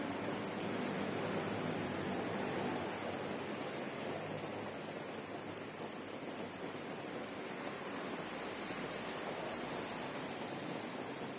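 Steady rain falling: a continuous even hiss with a few faint ticks of drops.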